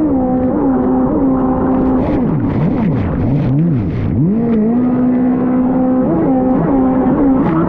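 Fast Powersports F16 dirt bike engine at riding revs: held at a high pitch for stretches, dropping and climbing again several times as the throttle is chopped and reopened, with scattered short clicks and rattles.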